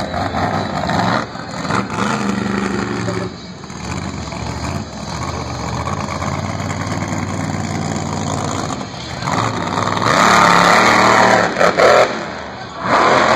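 Monster truck engine revving in bursts, its pitch rising and falling, loudest about ten seconds in.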